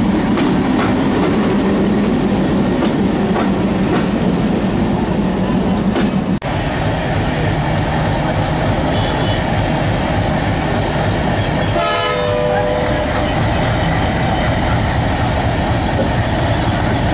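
Diesel-hauled express train with a WDM3D locomotive passing close by, a steady heavy rumble with rattling wheels over the rail joints. A short horn blast sounds about two-thirds of the way through.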